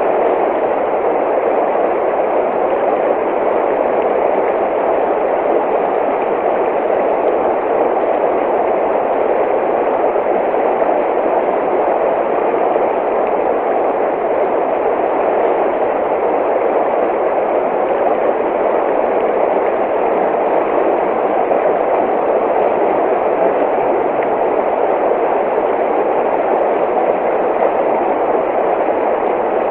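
Running water rushing steadily, an even unbroken sound with no single splashes standing out.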